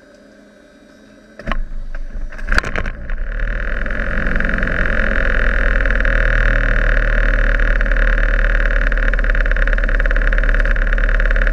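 Light aircraft cabin: a few sharp clicks or knocks, then about three seconds in a loud, steady drone of engine, propeller and rushing air sets in and holds.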